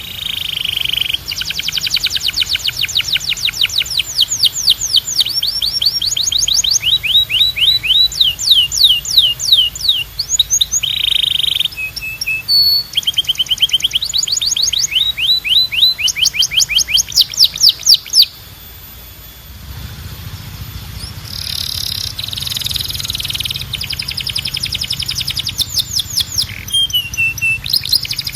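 Canary singing: long trills of rapidly repeated sweeping notes, changing from one trill type to the next, with a pause about 18 seconds in before the song resumes over a low hum.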